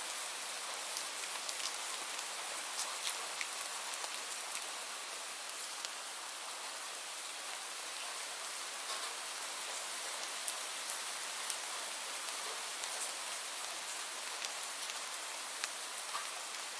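Steady rain: an even fine hiss with scattered sharp hits of single drops close by.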